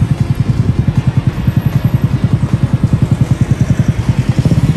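Small motorcycle engine idling with a steady, rapid pulse, about a dozen beats a second, not revving.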